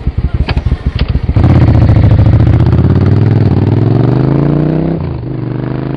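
Motorcycle engine ticking over, then revving up and pulling away with its pitch climbing steadily; about five seconds in the pitch drops suddenly and the engine runs on more evenly.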